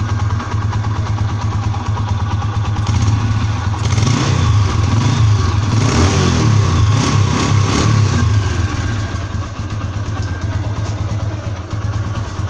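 TVS Apache motorcycle's single-cylinder four-stroke engine on its stock exhaust, idling, then revved in a series of throttle blips from about four to eight seconds in before settling back to idle.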